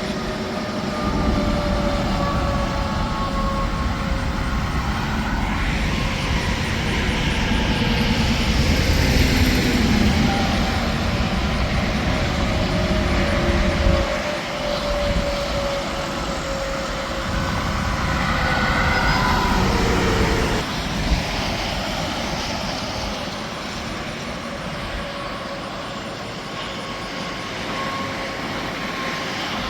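Interstate highway traffic: tractor-trailers and other vehicles passing at highway speed, their tyres whining in tones that slowly fall in pitch as they go by. The traffic noise swells about a third of the way in and again past the middle.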